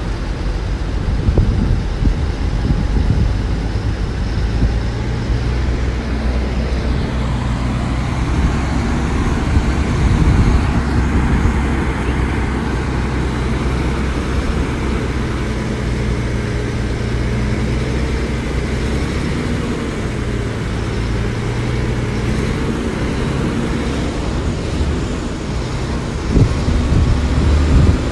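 Diesel engines of earthmoving machinery running steadily, a continuous low engine drone with rough mechanical noise over it.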